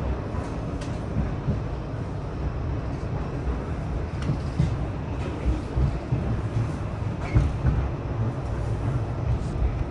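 Tram running along the track: a steady low rumble with a few sharp knocks from the wheels and running gear.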